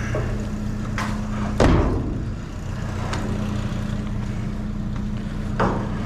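A motor vehicle engine idling steadily, with several sharp knocks and clatters of items being handled in a dumpster, the loudest about a second and a half in.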